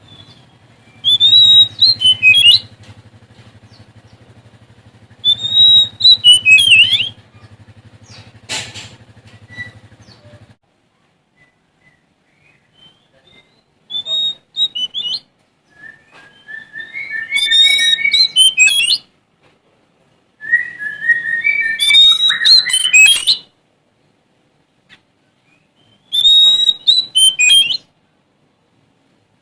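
Oriental magpie-robin of the Sumatran race (kacer Sumatra) singing: six loud bursts of whistled, warbling phrases a few seconds apart. A low steady hum runs beneath for about the first ten seconds, then stops.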